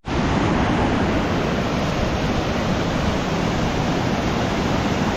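Waterfall rushing close by: a loud, steady roar of falling water that starts abruptly right at the start.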